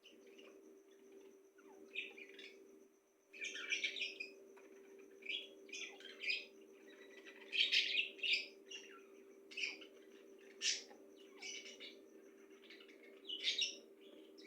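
Pet birds chirping in many short, sharp calls, with louder clusters about a few seconds in and again around the middle, over a steady low hum.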